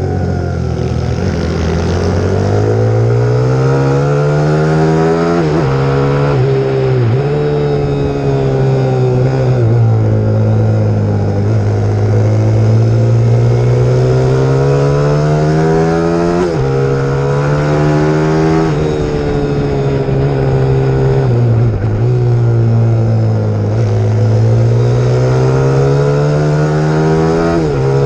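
Pit bike's 150 cc single-cylinder engine under hard riding. Its pitch climbs and then drops sharply, over and over, as the throttle opens and the gears change.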